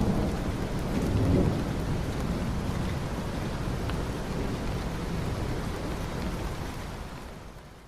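Steady rain with low thunder rumbling, heaviest in the first second and a half, then the whole sound fades away near the end.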